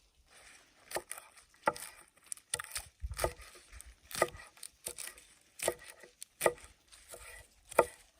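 A knife chopping leafy greens, a series of sharp, unevenly spaced chops roughly once a second.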